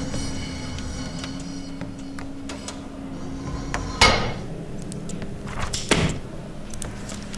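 Recorded sound effects: a steady low hum, then two sharp thuds about two seconds apart, the first the louder, each with a short ring-out.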